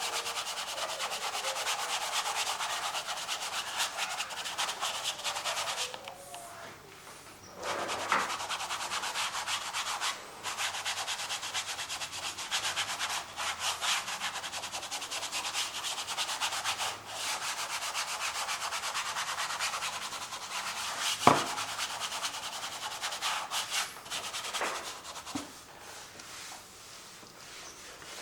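A painting tool scraping and rubbing acrylic paint across canvas in long continuous strokes, with a couple of short pauses. About three-quarters of the way through there is a single sharp knock.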